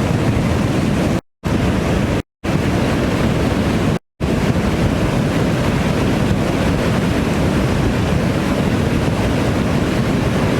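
Melamchi River in flood, a loud, steady rush of water heavy in the low end, with wind buffeting the microphone. The sound drops out briefly three times in the first four seconds.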